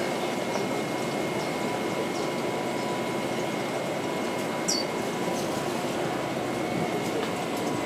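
Short, high chirps of small birds, repeating every second or so, with one louder falling chirp about halfway through. Behind them runs a steady rushing noise with a faint steady hum.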